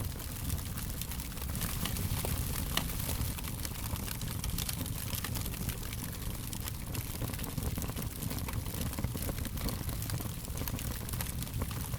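Wood fire crackling steadily: frequent small pops and snaps over a low rumble, with one sharper pop about three seconds in.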